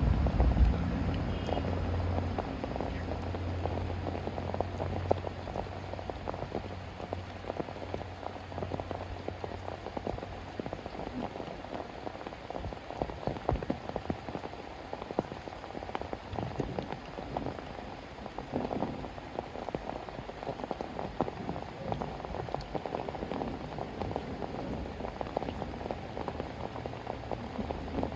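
Steady rain falling on a surface, a dense scatter of small drop ticks. A low steady hum sits underneath for about the first third and comes back near the end.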